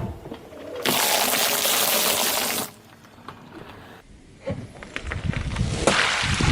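A car tyre crushing objects. A thump, then a loud gushing hiss of liquid spraying out for about two seconds. After a cut, crackling crunches over the low rumble of the rolling tyre.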